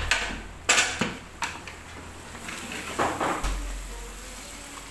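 Large ladle stirring chicken in a big cooking pot, knocking and scraping against the pot several times.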